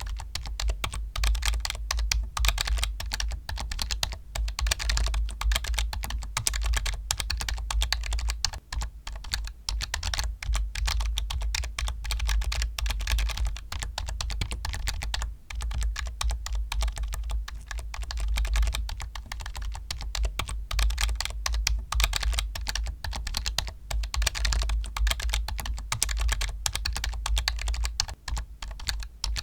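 Continuous fast typing on a computer keyboard, a dense stream of key clicks with brief pauses now and then.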